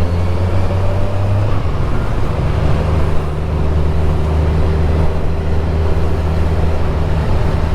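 Kawasaki Z1000SX's inline-four engine running steadily at cruising speed, with the rush of wind over the microphone.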